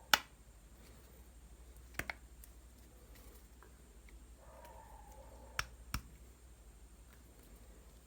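Sharp clicks of small metal motor parts knocking together as a brushless RC motor is put back together by hand: one loud snap right at the start, a quick double click about two seconds in, and two more clicks near six seconds.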